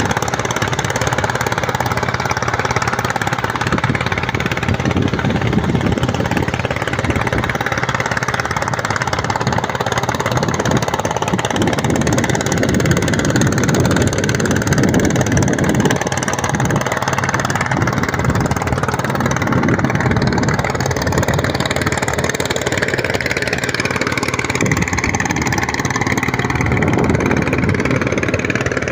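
An engine running steadily and loudly close by, its pitch holding even throughout.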